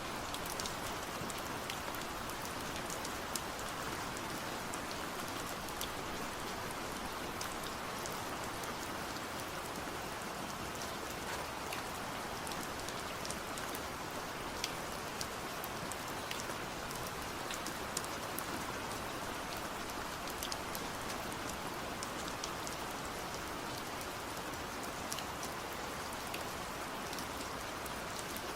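Steady rain falling, an even hiss with many scattered sharper drop ticks.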